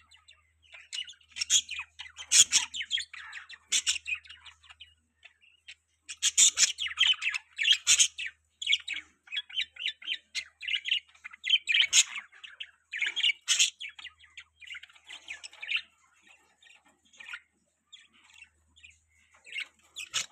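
Budgerigars chirping in quick runs of short, high notes, thinning out for a few seconds about three quarters of the way through, then picking up again near the end.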